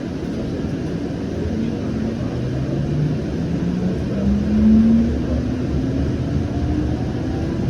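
Siemens S700 light-rail car pulling away from a stop: a rumble of wheels on rail, with the electric traction drive's whine climbing in pitch over a few seconds as the train gathers speed, then fading.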